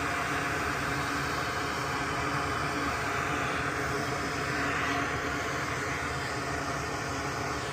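Steady hum and hiss of background machinery, with no distinct events.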